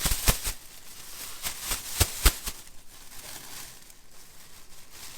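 A twisted donut being shaken in a bag of cinnamon sugar, knocking against the bag several times a second. The shaking slows to a few separate thumps, then only a soft crinkling of the bag remains.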